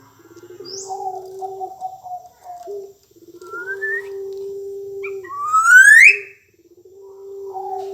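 Black-naped oriole (kepodang emas) singing: rising fluty whistles, the loudest sweeping upward about five to six seconds in. They sound over three long, low, buzzing held notes.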